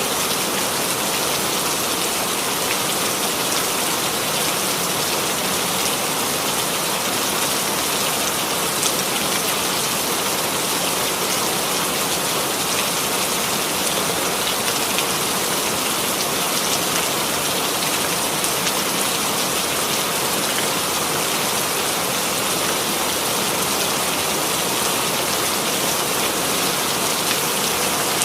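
Steady rainfall, an even hiss with fine drop patter on a surface.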